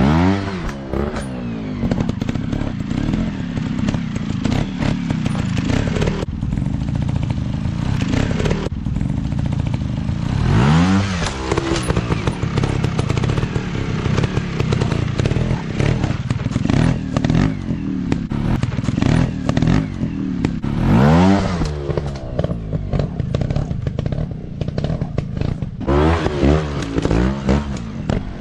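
Dirt bike engine running hard, its pitch rising sharply as the throttle is opened about three times, then several quick throttle blips near the end.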